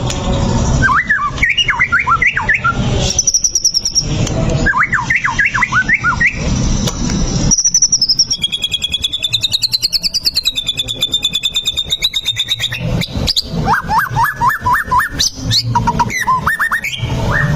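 White-rumped shama singing: short bursts of rapid, swooping whistled notes, with a long fast-warbling high trill in the middle, over a low rumble.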